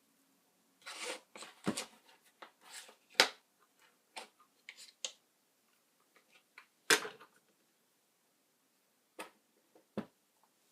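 Irregular clicks, light knocks and scraping, as of small objects being handled, with the two loudest knocks about three and seven seconds in.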